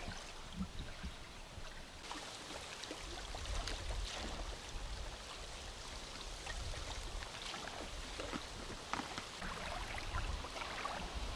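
Light rain falling: a soft steady hiss with scattered faint ticks of drops, over a low rumble.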